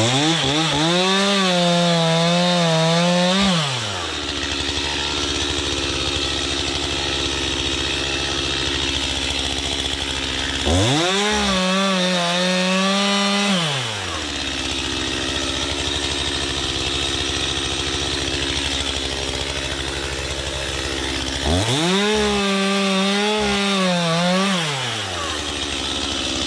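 Gas chainsaw revving up to cut three times, about ten seconds apart, and idling in between; under load its pitch wavers as the chain hangs up in the wood. The operator wonders whether this comes from the bar lacking oil after the saw was run in the water.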